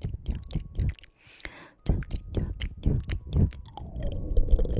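ASMR mouth sounds: wet tongue clicks close to the microphone in a quick, uneven series, with a short pause about a second in.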